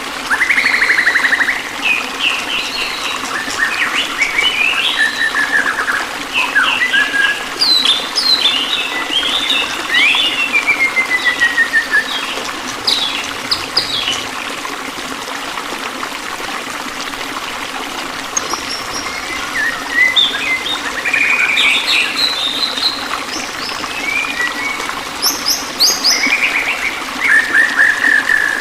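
Songbirds chirping and singing in varied phrases, with quick trills and falling whistles, over a steady trickle of running water. The birds go quiet for a few seconds midway, leaving only the water.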